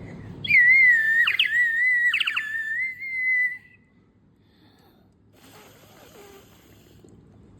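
Water-filled bird whistle blown for about three seconds, giving a wavering whistle tone with two short warbling trills in the middle.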